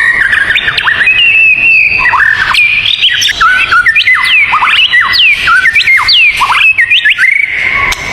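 Songbird singing a rapid, loud string of clear whistled notes and quick falling glides, over a steady high tone.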